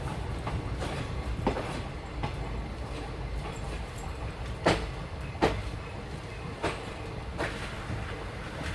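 Moving train heard from on board: a steady low rumble with irregular clicks and knocks of the wheels over rail joints, the loudest two close together just under five seconds in.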